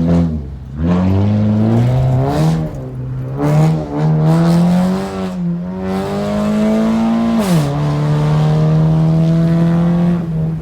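Car engine accelerating through the gears: the revs climb and fall back at each of several shifts, then settle into a steady cruise about three-quarters of the way through.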